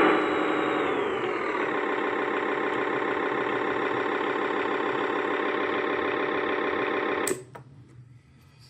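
Simulated engine sound from an ESP32-based DIY Guy 999 RC sound board: the pitch falls back from a rev over the first second or so, settles into a steady idle, then cuts off sharply about seven seconds in. It shows the newly flashed custom firmware working once the transmitter output is set to S-Bus.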